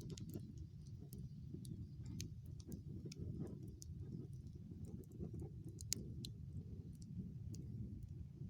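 Campfire crackling: irregular sharp pops and snaps over a steady low rumble, with one louder snap about six seconds in.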